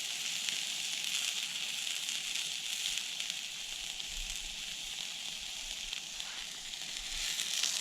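Meat sizzling in a pan over campfire embers: a steady frying hiss with fine crackle, getting a little louder near the end.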